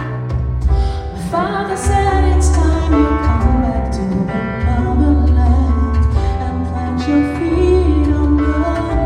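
A woman singing a soul ballad live over instrumental accompaniment with a strong, steady bass; the voice comes in about a second in, with long held and sliding notes.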